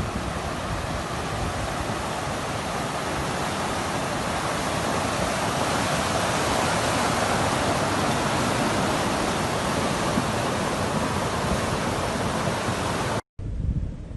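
Steady rushing of floodwater, a flash flood running through a desert wadi, swelling a little in the middle. It breaks off at a cut near the end into a quieter recording.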